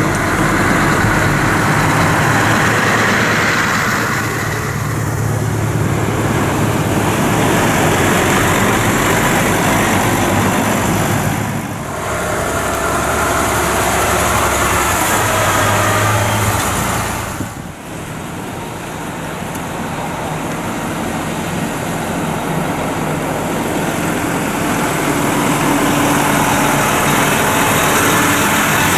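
Lorry engines running and moving past, a steady mix of engine and road noise. The sound dips and changes abruptly twice, near the middle and again about two-thirds of the way through.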